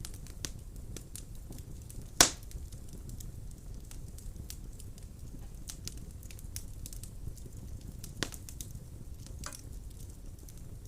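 Wood fire burning in a fireplace: a steady low rumble of flames with many small crackles, one loud pop of burning wood a couple of seconds in and a smaller pop near the end.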